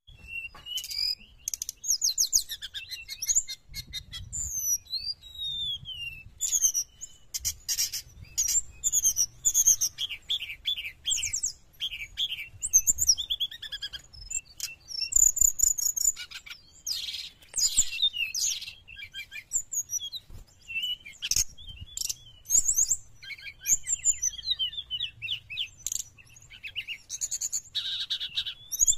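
Brown-chested jungle flycatcher singing continuously: rapid, high-pitched warbling phrases of trills and gliding whistles, one after another with only short gaps.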